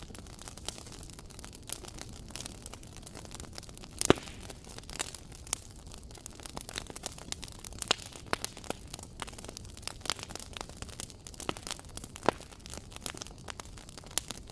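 Wood fire crackling in a fireplace: irregular sharp pops and snaps over a steady low rumble and hiss, with a loud pop about four seconds in.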